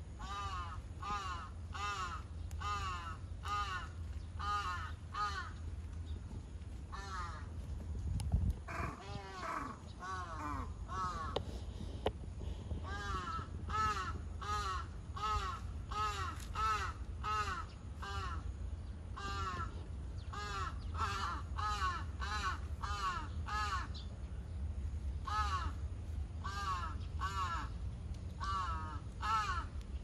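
Birds calling in runs of short, harsh repeated calls, several a second, with brief pauses between runs, over a steady low rumble.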